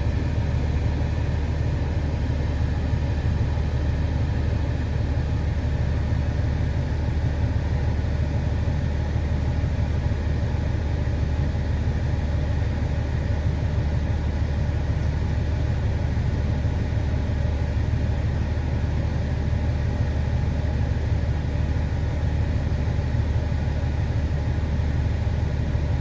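An engine running steadily at an even, unchanging speed, with a low hum.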